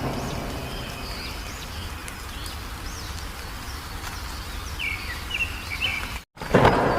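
Small songbirds chirping and whistling in quick short calls over a steady low background rumble. About six seconds in the sound cuts out for a moment and comes back louder and noisier.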